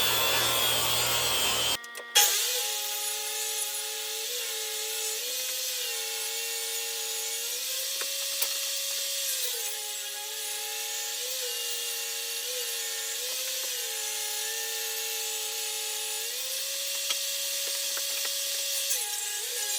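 Electric power tool cutting wood. Its motor whine drops in pitch each time it bites into the wood and picks back up as the load eases, again and again. A different, rougher cutting sound is heard for the first two seconds or so, before an abrupt change.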